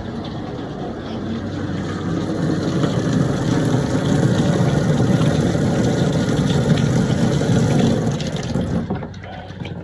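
Water gushing at full flow from newly plumbed laundry-box valves, a loud steady rush that builds and then dies away near the end.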